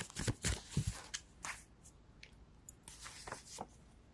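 Tarot cards being handled: a quick run of flicks and rustles in the first second, then a few scattered soft taps and slides.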